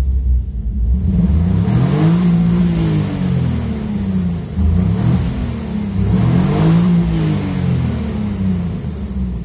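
The straight-six of a 1999 BMW E36 328is, fitted with an axial-flow rotary valve cylinder head, free-revving twice. Engine speed climbs and falls back about a second in, settles, then climbs and falls again about five seconds in.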